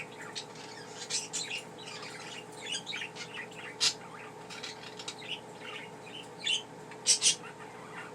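Pet budgerigars chirping and chattering in short, scattered high chirps, with louder chirps about four seconds and seven seconds in. A faint steady hum runs underneath.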